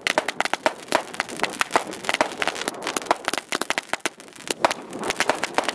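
A string of firecrackers going off, many sharp cracks in rapid, irregular succession with no break.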